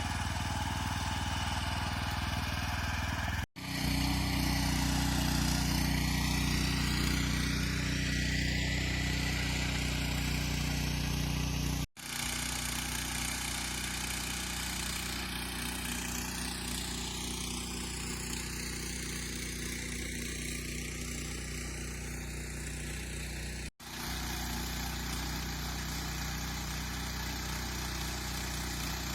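Walk-behind tractor's small engine running steadily while working the soil, the sound dropping out for an instant three times.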